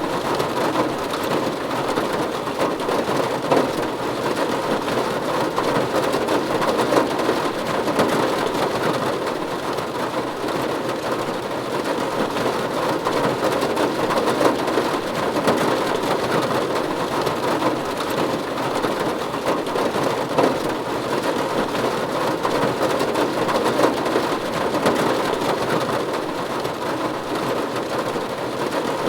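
Steady rain falling on a roof: a dense, even patter of drops with no breaks.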